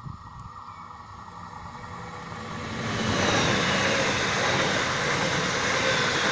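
NordWestBahn ET 440 electric multiple unit approaching and passing close by: a rush of wheels on rail that grows louder, peaks about three seconds in and stays loud as the cars go past.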